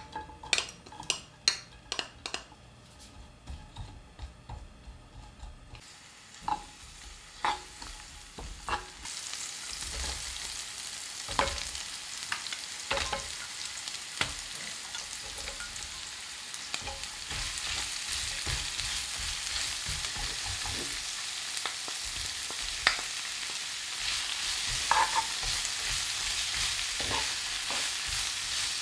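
Stir-frying in a nonstick frying pan worked with a wooden spatula. First come light clicks and taps as sliced green onions go into the oil. About nine seconds in a loud, steady sizzle takes over as bacon, cabbage and carrot fry, with occasional scrapes and knocks of the spatula against the pan.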